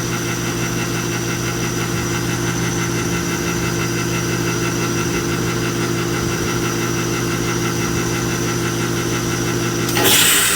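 Heat pump outdoor unit running with a steady hum, then about ten seconds in a sudden loud rush of noise lasting about half a second as the reversing valve shifts. The noise is the sign that the reversing valve works.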